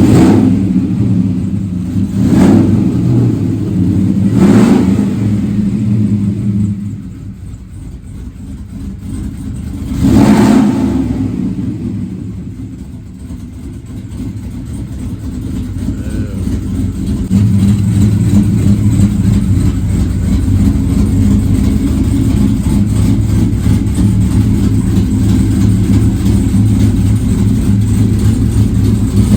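A car or truck engine revved in several short sharp blips, falling back to a quieter run between them, then running steadily and loudly for the last twelve seconds or so.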